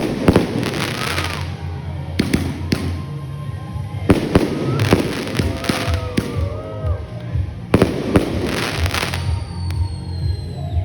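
Fireworks going off in a string of sharp bangs, each followed by crackling, over music with a steady bass beat. A few gliding whistle tones sound among the bursts.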